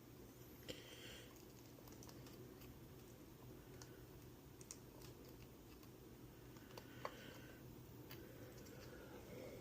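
Near silence: a low steady hum with faint, scattered small clicks and ticks, as of small parts and tools being handled at a workbench.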